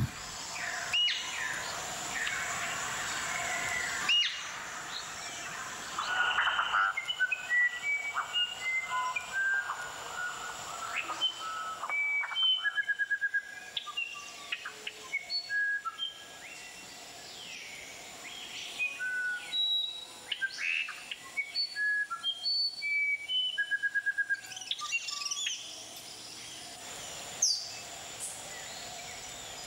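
Several rainforest birds calling, a run of short whistled notes and quick glides, some repeated in quick stutters, over a steady high-pitched hum.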